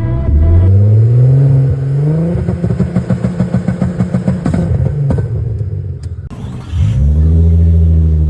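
Car engine revving hard: the pitch climbs over the first couple of seconds, then the sound pulses rapidly, about five or six times a second, for a few seconds. After a brief dip it revs up again and holds high.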